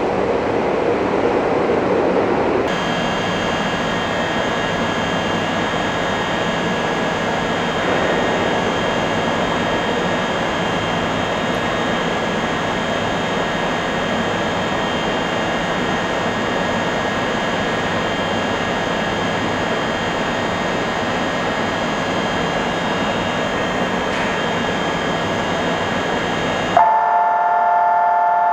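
Electric train standing at the platform, its on-board equipment giving a steady hum with several high whines held at one pitch. The sound shifts abruptly about three seconds in, and near the end a new, louder steady tone starts.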